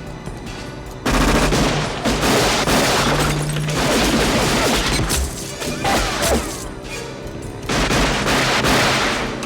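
Action-film soundtrack of rapid gunfire in loud bursts over music, starting suddenly about a second in, with a lull before it comes back near the end.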